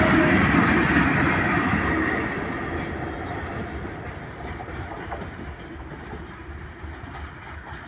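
Freight train hauled by a VL10U electric locomotive running by: a loud rumble of wheels on rails, loudest in the first two seconds, then fading steadily.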